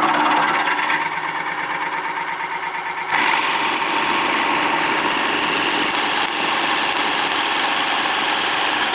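Wood lathe running at about 500 RPM while a 1.5-inch Forstner bit bores into the spinning wood blank, a steady grinding cut that turns louder and harsher about three seconds in.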